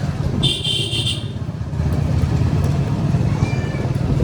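Road traffic: a motor vehicle engine running with a steady low rumble. About half a second in, a short high-pitched horn toot lasts under a second.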